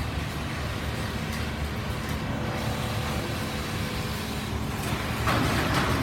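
Many Richpeace single-head quilting machines running together, giving a steady mechanical hum, with a brief louder noise about five seconds in.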